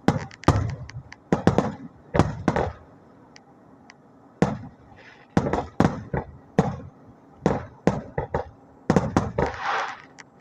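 Aerial fireworks shells bursting one after another: more than a dozen sharp bangs at uneven intervals, some in quick pairs and clusters.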